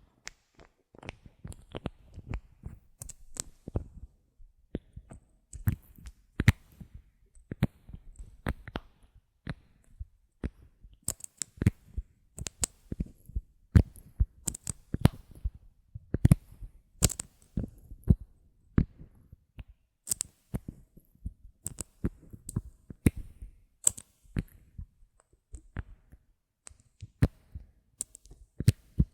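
Bottle caps handled close to the microphone: a long, irregular run of sharp clicks and taps, some in quick clusters, with short quiet gaps between.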